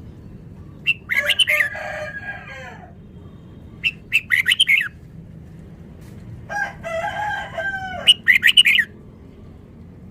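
Red-whiskered bulbul singing three bursts of rapid, fast-tumbling whistled phrases, with pauses between them.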